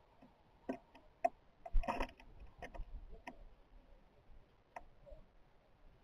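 Birds pecking and tapping at a feeder: about six irregular light taps, with a quick scrabbling run of taps about two seconds in.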